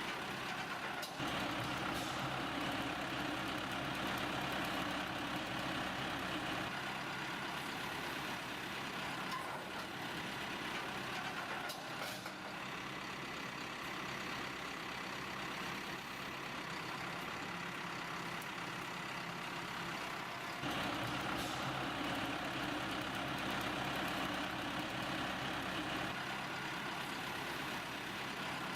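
Diesel tractor engine running steadily, with the engine level shifting a few times as the load or throttle changes.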